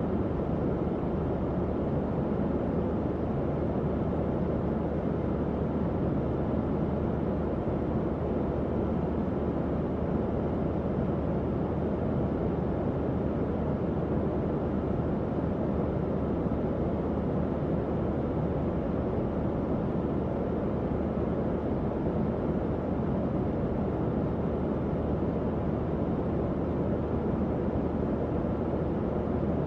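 Tower fan running steadily: an even, low whooshing of moving air with a faint low hum from the motor.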